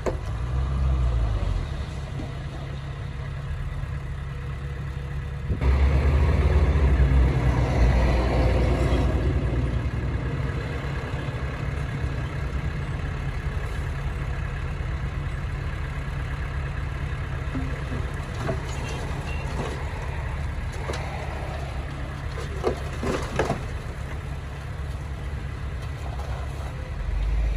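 Heavy diesel earthmoving machinery running with a steady low engine drone. It grows louder for a few seconds about six seconds in, and a few short knocks come near the end.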